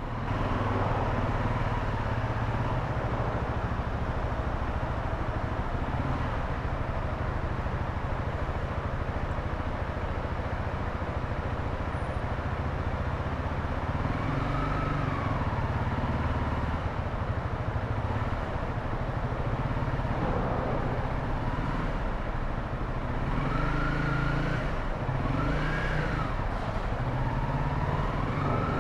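Motorcycle engine running under a steady low rumble as it is ridden. The engine note rises and falls a few times in the second half as the throttle is opened and closed.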